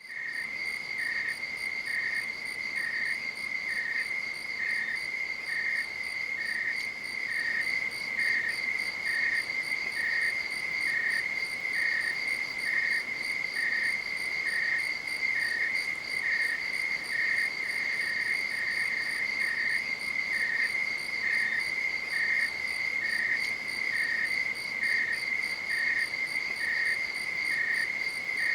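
Night insects calling: a steady, high-pitched trill, with a second insect chirping about once a second just beneath it.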